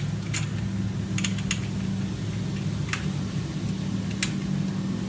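Steady low engine hum of a street sweeper running outside, with about five sharp, scattered clicks and taps over it.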